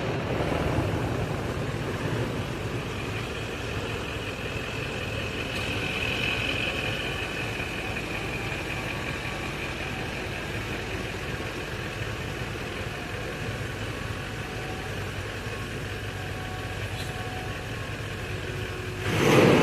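Toyota Land Cruiser 200's 4.5-litre V8 turbo-diesel engine idling steadily, the job of replacing its engine mounts done.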